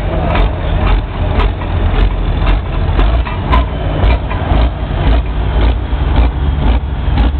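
Pulling tractor's engine running steadily, with sharp knocks or clatter every fraction of a second.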